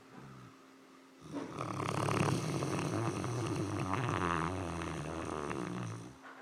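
Sleeping Great Dane snoring: one long snore that starts about a second in and runs for about five seconds before stopping.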